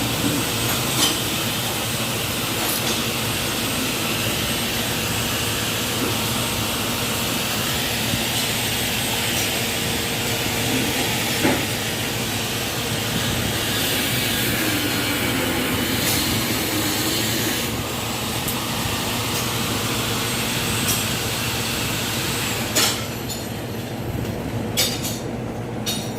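Steady rumble and hiss of a moving vehicle, with a constant low hum, scattered clicks and rattles. The high hiss drops away near the end.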